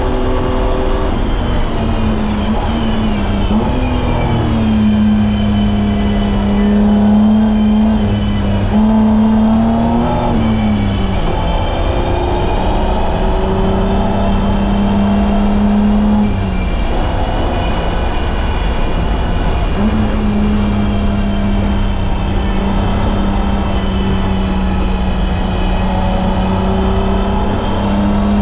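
BMW M20B25 2.5-litre inline-six in an E30 running hard on track, holding a steady note for long stretches, with a dip in pitch about eleven seconds in and a lull a few seconds later before it picks up again and holds. Constant low road and tyre rumble runs underneath.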